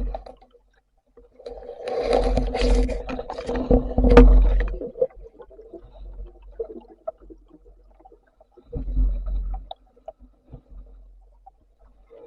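Water gurgling and rumbling around a camera underwater, in two bursts: a longer one of about three seconds with a low hum through it, then a shorter one of about a second later on.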